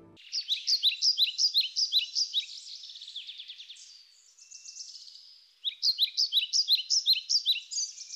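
Small bird chirping in quick runs of high, falling chirps, about five a second, with a quieter trill between them. A second run starts a little past halfway.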